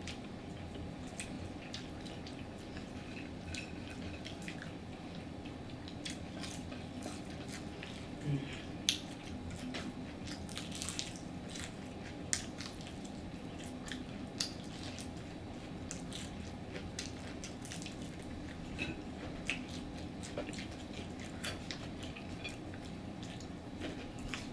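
Close-up eating sounds: chewing and biting fried chicken, with many small wet, crunchy clicks and smacks scattered over a steady low hum.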